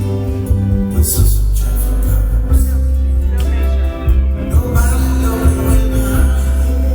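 Live band music, an instrumental stretch of a song, with a heavy bass line and sharp beats.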